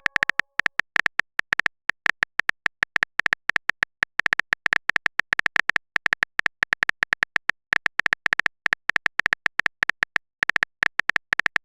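Typing sound effect of a phone keyboard: rapid, unevenly spaced clicks, about eight a second, running on without a break.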